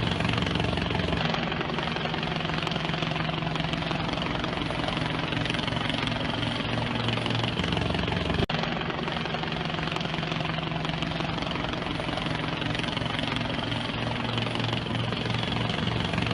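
Steady engine drone with a low, pulsing hum, broken once by a short click about eight and a half seconds in.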